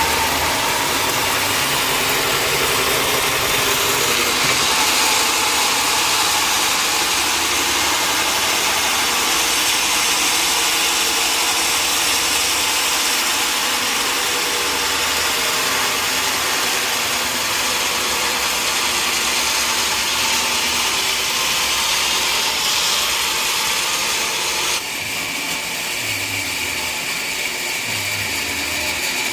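Sawmill machinery running steadily: a motor with a loud, even hiss. About 25 s in, the sound drops slightly and abruptly.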